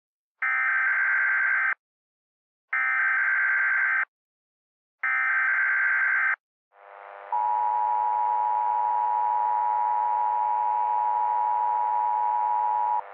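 Emergency Alert System SAME header: three identical bursts of harsh digital data screech, each just over a second long with about a second between them. These are followed by the EAS two-tone attention signal, a steady piercing tone held for about six seconds, which marks the start of an emergency alert.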